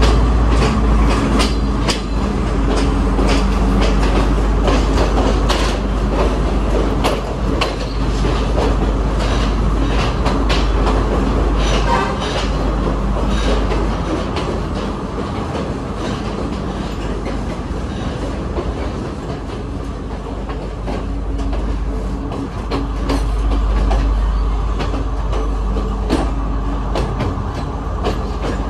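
Passenger train heard from inside the carriage, running along the line with a steady rumble and irregular clacks of the wheels over rail joints. For part of the run it passes through a tunnel.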